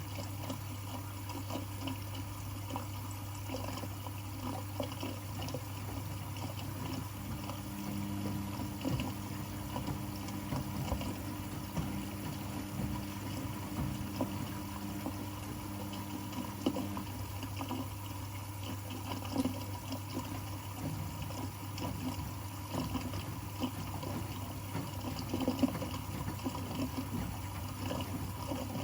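Water running and splashing over the steady low hum of running laundry machines. A second low machine tone joins for about ten seconds in the middle.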